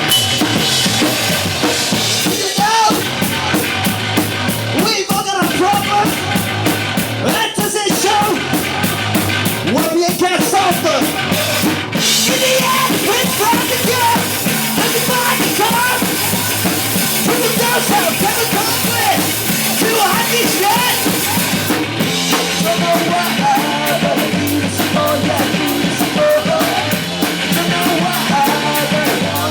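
Rock band playing with a full drum kit, bass drum and snare under a quick, even run of cymbal hits. The cymbals drop out about twelve seconds in and come back about ten seconds later.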